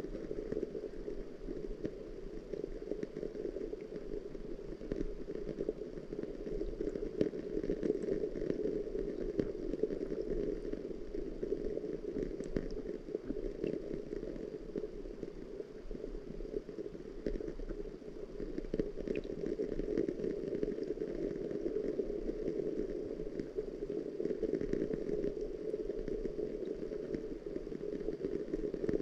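Steady rain, a dense, even patter with a low, muffled tone.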